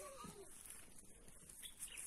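Faint distant bird calls: a few short gliding notes near the start and brief chirps later, over quiet open-air background.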